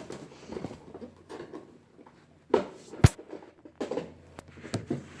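Scattered knocks and rustles of things being handled, with a thump about two and a half seconds in and a sharp, loud click just after three seconds.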